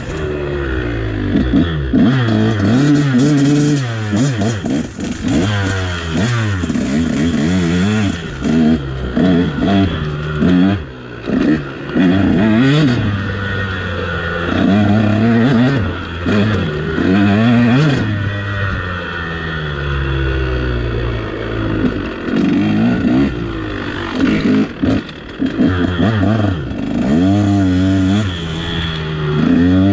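KTM dirt bike engine revving up and backing off over and over as the bike is ridden, its pitch rising and falling every second or two, with scattered knocks and clatter.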